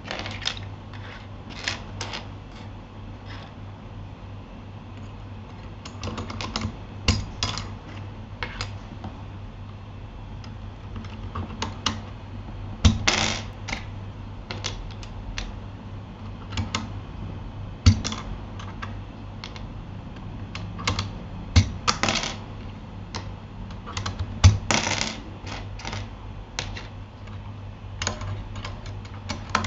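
Typing on a Keychron K8 mechanical keyboard fitted with Gateron Aliaz silent switches: irregular, muted key presses with a few louder strikes now and then. A steady low hum runs underneath.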